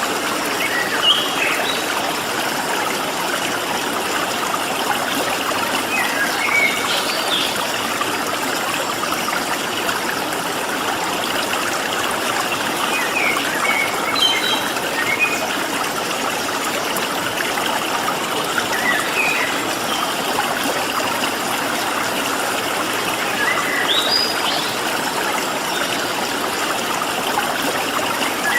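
Water flowing and trickling steadily, as in a stream, with short chirps from small wild birds every few seconds.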